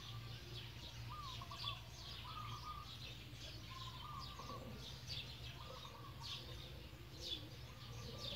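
Small birds chirping: quick high chirps in rapid clusters throughout, with a lower wavering call every second or two, over a steady low hum.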